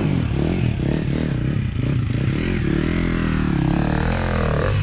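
Dirt bike engine revving, its pitch rising and falling as the throttle is worked.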